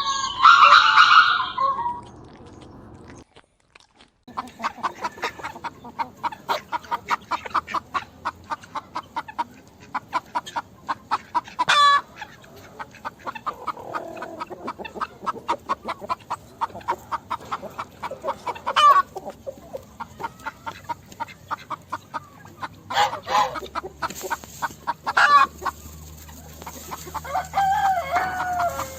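Hens clucking in a rapid run of short clucks, broken by a few louder rising squawks. A loud animal call comes first, then a brief gap before the clucking.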